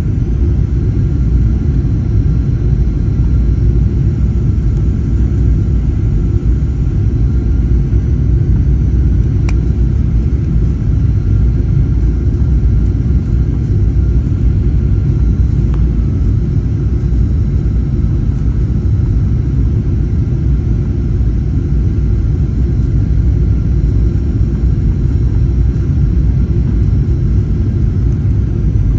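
Steady low rumble of a Boeing 737-800 heard from inside the passenger cabin: its CFM56-7B engines and airflow running at an even, unchanging level.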